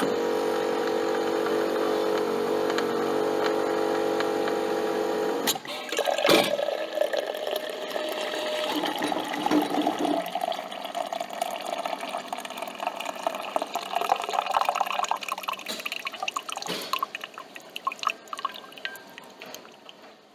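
Coffee machine at work: a steady mechanical buzz for about five seconds stops suddenly. Irregular liquid gurgling and hissing follows and fades near the end.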